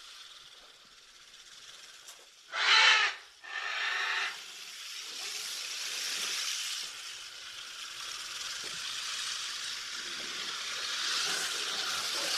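Prehensile-tailed porcupine sounds: two short, loud breathy calls close together, then a fainter steady hiss.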